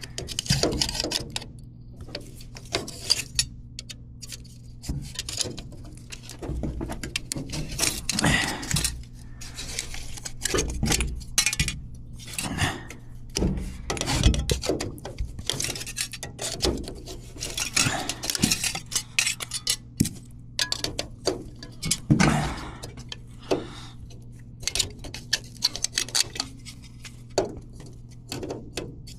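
Metal fins being worked and torn off a coil's copper tubing with a hand tool: irregular metallic clinks, scrapes and crinkling, with a steady low hum underneath.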